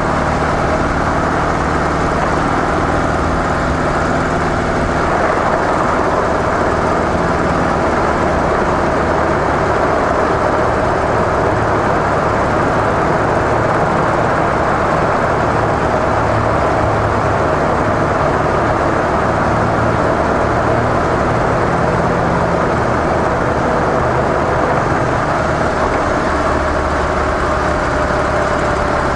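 Harley-Davidson CVO Softail Deluxe's V-twin engine running steadily through its stock mufflers, its pitch shifting a little.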